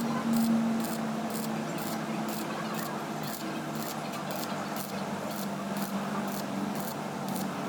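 Rhythmic scraping strokes of hand work, about two a second, over a steady low hum.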